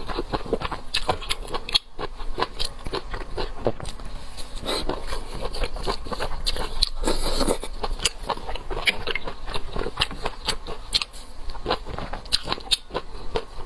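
Close-miked eating sounds: chewing and wet mouth clicks and smacks as cooked seafood is eaten, in a dense, irregular stream.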